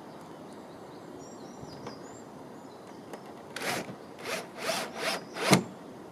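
Five quick rasping strokes about half a second apart, growing louder, the last one the sharpest, over steady outdoor background with faint bird chirps in the first couple of seconds.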